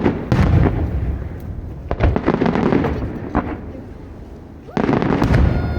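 Aerial fireworks shells bursting, each with a loud boom followed by crackling that dies away: one right at the start, another about two seconds in, and a third near the end.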